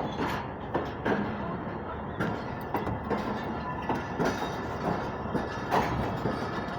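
A rake of passenger coaches rolling slowly along the track, with irregular knocks and clanks from the wheels and couplings over a steady rumble.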